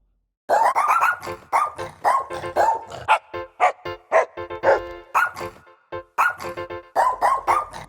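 Theme-song jingle built from dog barks, with short barks pitched into a quick tune. It starts about half a second in.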